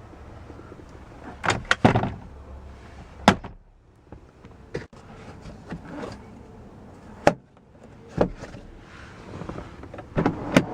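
Scattered sharp clicks and knocks, about eight over ten seconds, from parts of a car being handled, with a cluster of three about one and a half seconds in.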